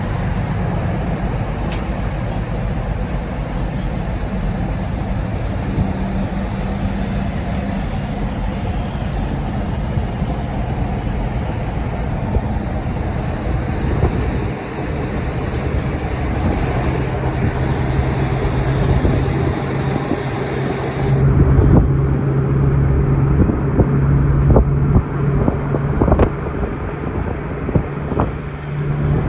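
A truck's engine running with road noise while driving, a steady drone. About two-thirds of the way through the sound changes to a lower, steadier engine tone with scattered knocks and bumps.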